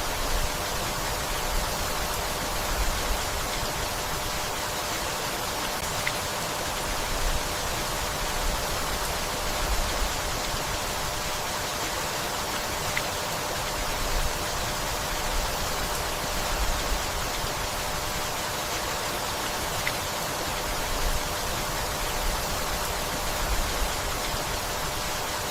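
Steady rainfall: an even hiss of countless drops, with soft low rumbles swelling now and then underneath.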